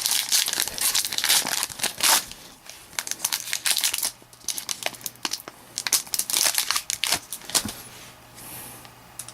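Trading card pack wrappers crinkling as packs are opened and cards handled, a busy run of sharp crackles that thins out near the end.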